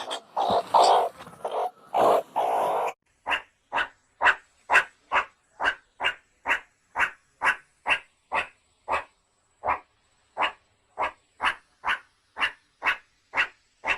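An animal calling: a few longer, louder cries in the first three seconds, then a steady series of short, evenly spaced calls, a little over two a second.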